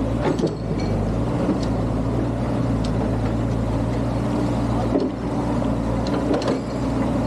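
Excavator's diesel engine running steadily, with a few sharp knocks or clanks scattered through.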